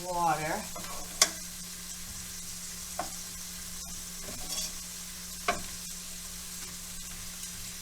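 Onions and bacon frying in pans on the stove, a steady sizzle, with a utensil clicking against the pan three times as the onions are stirred.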